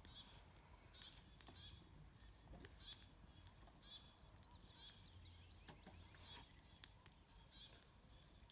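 Near silence outdoors: faint birds chirping at irregular intervals, with a few faint clicks.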